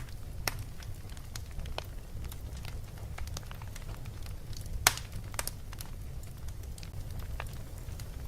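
Wood fire in a fireplace crackling, with irregular sharp pops over a steady low rumble; the loudest pop comes about five seconds in.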